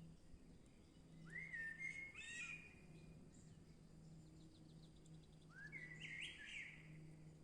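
A songbird singing two short warbled phrases, each opening with a rising whistle: one about a second in, the other about six seconds in. A faint steady low hum runs underneath.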